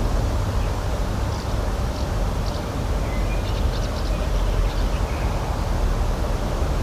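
Outdoor nature ambience: a steady low rushing noise, with faint, short, high bird chirps scattered from about one to five seconds in.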